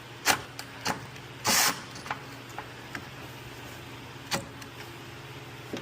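Irregular metallic clicks and clinks of a socket wrench working on a control arm bolt, with a short rasping burst about a second and a half in, over a steady low hum.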